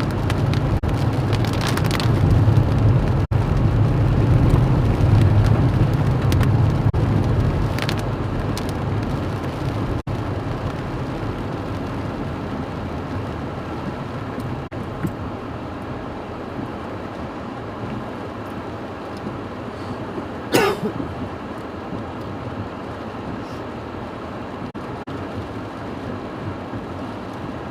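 Storm noise of wind and rain on an outdoor microphone: a steady rushing hiss, with a heavy low rumble for the first several seconds that then dies away. About twenty seconds in there is one short, sharp sound.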